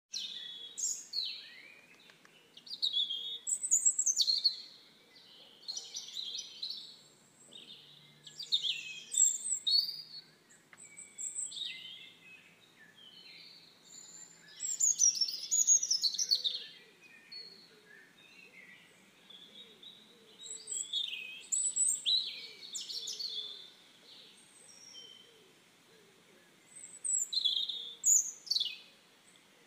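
Birds singing: bursts of high chirping song phrases, each a second or two long, with short pauses between them.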